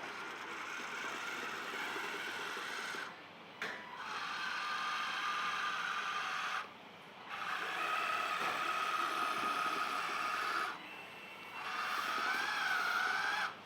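Electric motor whine from the LESU LT5 1/14 RC skid-steer loader, running in four separate spells of about two to three seconds each and stopping abruptly between them. In the last spell the pitch rises and falls, as if under changing load.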